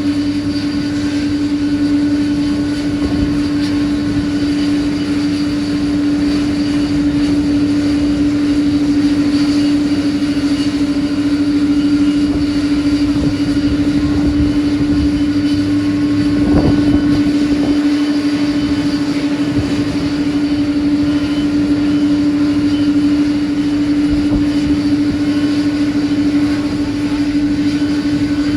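Jet airliner engines running steadily, a constant droning tone over a wash of engine noise that holds level with no rise or fall in pitch.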